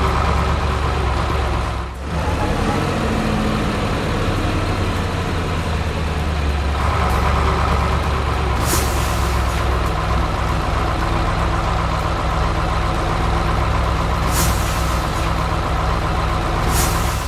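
Heavy truck diesel engine running steadily, with three short high hisses of air brakes near the end.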